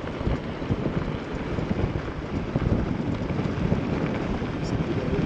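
Wind buffeting the microphone over the low, uneven rumble of a vehicle driving.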